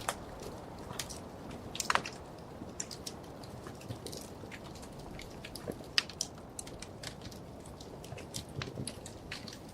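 Wood fire burning in a fireplace: irregular sharp crackles and pops over a steady low hiss of the flames, with louder pops about two seconds in and about six seconds in.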